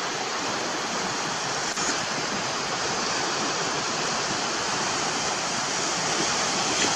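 Steady wash of sea surf breaking along the beach.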